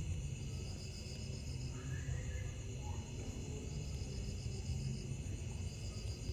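Night insect chorus: crickets trilling steadily, with a higher pulsing trill that fades in and out twice, over a low rumble.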